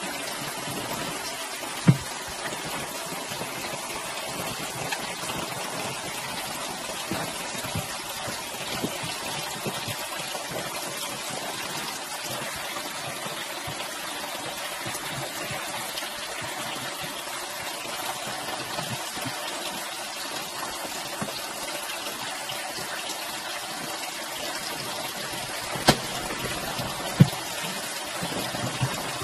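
Water running steadily, a continuous gushing, with a few sharp knocks, one about two seconds in and two near the end.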